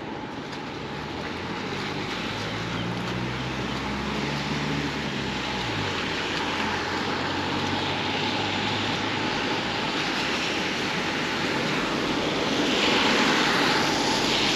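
Road traffic: a vehicle engine hums low for the first few seconds and stops abruptly about six seconds in, over steady road and tyre noise that swells shortly before the end.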